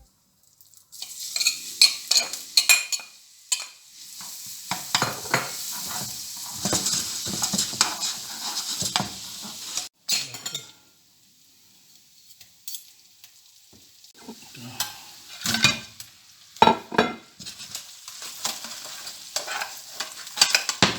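Garlic sizzling in butter in a hot pan while a utensil stirs it, with many clicks and scrapes of the utensil against the pan. The sizzling dies down about halfway through, and then only scattered knocks and scrapes of stirring go on.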